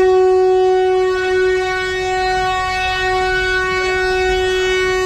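Train horn sounding one long, steady blast of about five seconds.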